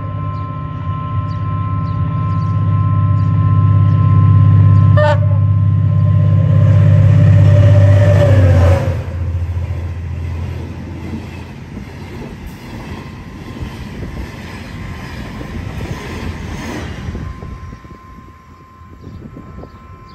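Henschel diesel locomotive hauling a passenger train, its engine drone growing louder as it approaches, with one short horn blast about 5 seconds in. Then the passenger coaches roll past with wheel and rail noise and occasional clacks, fading away near the end.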